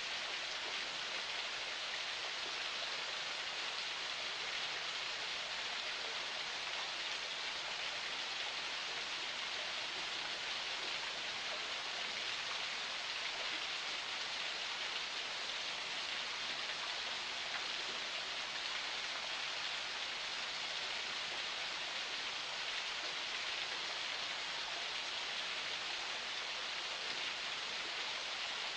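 Water of a small forest spring flowing steadily: an even, unbroken hiss of running water without distinct splashes.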